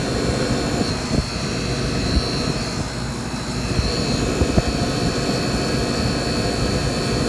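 Commercial refrigeration unit running: a steady mechanical hum and fan rush, with a thin high whine above it and a few faint clicks.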